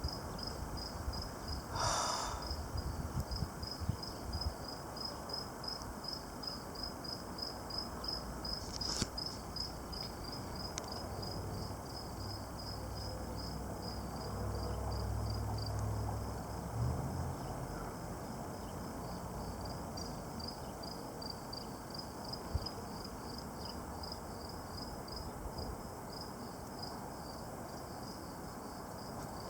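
Crickets chirping in a steady, even rhythm, several chirps a second. A low rumble rises underneath for a few seconds about halfway through.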